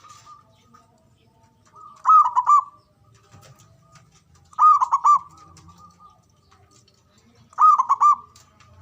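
Zebra dove (perkutut) singing its manggung cooing song: three loud phrases of quick, repeated coo notes, about two and a half seconds apart, with fainter cooing between them.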